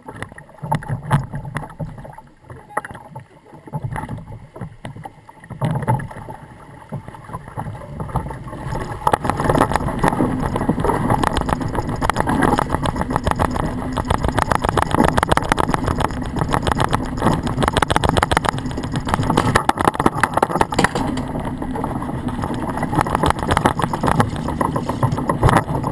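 Log flume ride as heard from the boat: uneven quieter water and wind noise at first, then from about eight seconds in a steady, louder rushing noise laced with rapid rattling.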